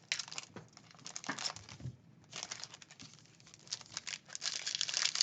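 Trading card pack wrappers crinkling and tearing as packs of Bowman Baseball cards are handled and opened, in a string of irregular crackles with a brief lull about two seconds in.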